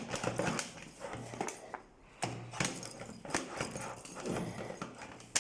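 Irregular clicks and knocks of a Givi tank-lock bag being handled and clipped onto its ring on the motorcycle's fuel tank, ending in one sharp click.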